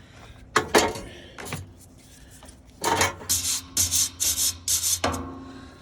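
Wire brush scraping rust off a semi truck's steel exhaust pipe: two strokes, then a quick run of back-and-forth strokes.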